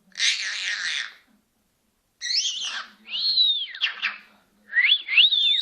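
Senegal parrot giving a harsh squawk lasting about a second, then three bouts of whistles that glide up and down in pitch.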